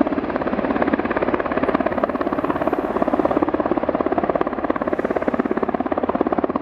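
U.S. Coast Guard helicopter flying low overhead. Its rotor makes a loud, steady, rapid chop, and the sound is noisy.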